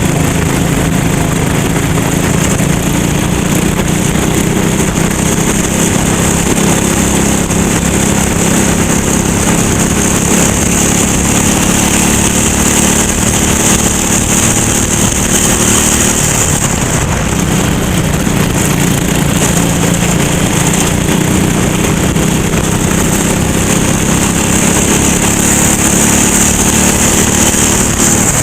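Go-kart engine running at racing speed, its pitch dipping and rising again partway through.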